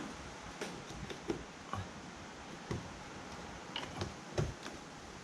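Scattered small clicks and ticks of hand work with a screwdriver on the plastic retainer screws of a car's windshield cowl panel, irregular and a few per second at most.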